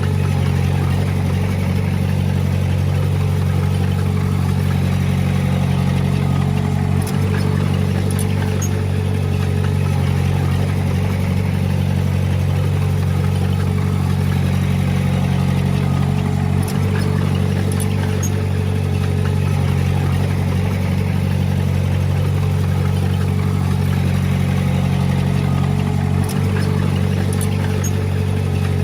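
Komatsu D20P bulldozer's diesel engine running steadily, with three very brief dips in level spaced about ten seconds apart.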